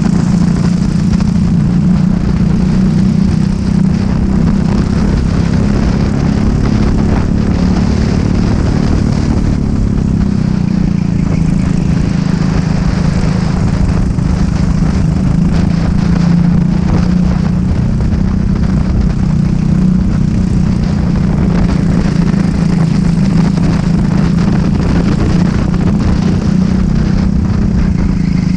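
Racing kart engine running hard at high revs, with a single steady engine note. The note drops briefly about a third of the way in, then climbs back up and holds.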